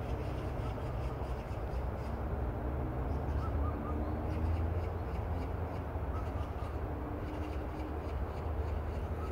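Outdoor ambience: a steady low rumble, with a bird calling faintly a few times, about three and a half seconds in, around seven seconds, and near the end.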